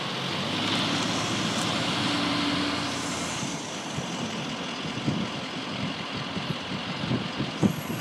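Car engine and road noise as the car drives slowly, with a few short low knocks and bumps in the second half.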